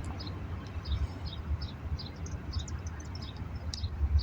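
Small birds chirping, short high notes about three or four times a second, over a steady low rumble.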